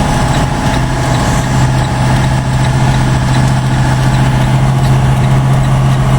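Truck's diesel engine running steadily at low revs, a constant low drone.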